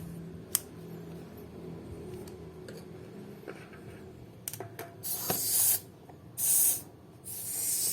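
A few small clicks of parts being fitted, then two short bursts of hissing air about five and six and a half seconds in, and a steady hiss starting near the end. The air is leaking from a tire pump head even though its lever is locked, which the owner takes as a sign that the piston ring or valve is busted.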